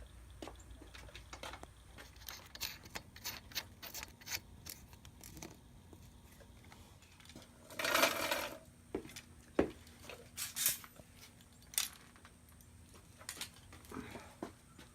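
Hand tools and small metal parts clinking and clicking as a dirt bike is being worked on: a quick run of light metallic clicks, then a short scraping rasp about eight seconds in, then a few scattered clinks.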